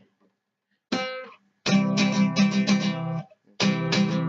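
Acoustic guitar being strummed. One chord rings out about a second in, then fast, steady strumming starts, stops briefly a little past three seconds and picks up again.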